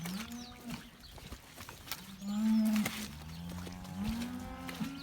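Dairy cows mooing: several long, low calls one after another and overlapping, the loudest about two seconds in.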